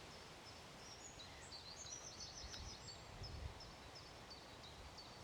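Faint small-bird song: a run of short high notes repeated about three times a second, with a busier twittering phrase overlapping in the middle, over a low wind rumble on the microphone.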